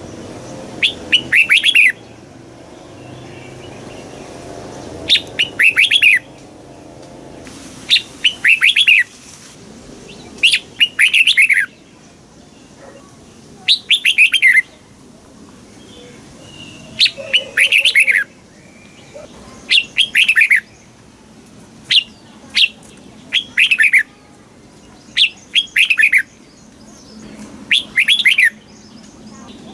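Red-whiskered bulbul singing: short, quick phrases of falling whistled notes, repeated every two to three seconds.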